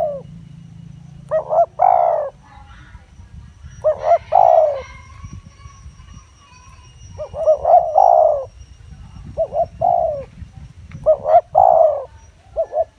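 Spotted dove cooing: repeated phrases of a few short coos ending in a longer note, about every two to three seconds, the call used to lure wild doves.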